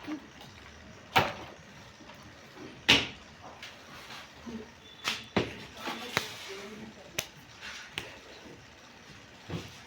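A series of irregular sharp knocks and clicks, the loudest about one and three seconds in.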